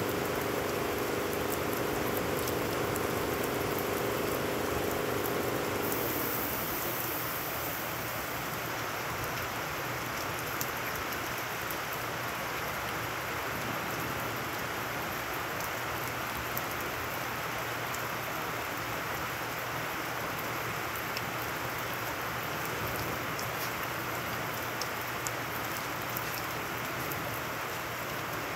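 Heavy rain falling steadily on wet ground and puddles, with scattered sharp drop hits. A low steady hum sounds underneath and stops about six seconds in.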